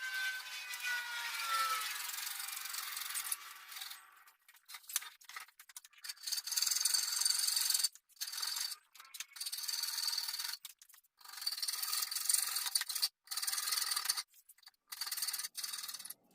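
A small power tool's motor winding down, its pitch falling over the first two seconds, followed by a series of short rasping, scraping bursts that start and stop repeatedly.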